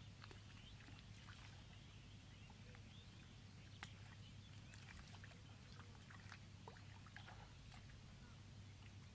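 Faint wet clicking and popping of soft mud as bare hands dig and squeeze into it, over a low steady hum.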